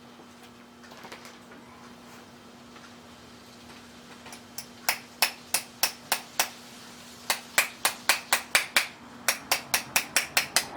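A small mallet tapping sheet metal over a form block to bend it: three runs of quick, sharp taps in the second half, each run a little faster than the one before.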